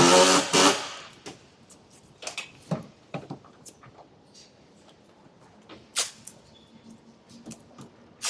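A power tool whirs briefly and stops, followed by scattered light knocks and clicks of tools and parts being handled.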